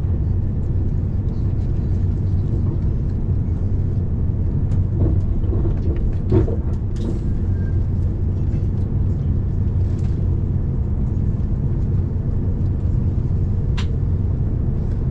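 Steady low rumble of a moving vehicle with an even hum, and a few light clicks and knocks.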